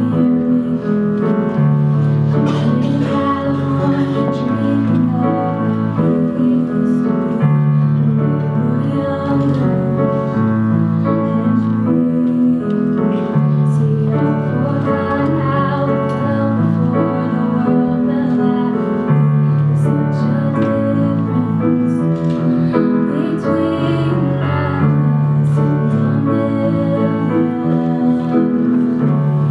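Music led by piano chords, with low bass notes changing every second or two.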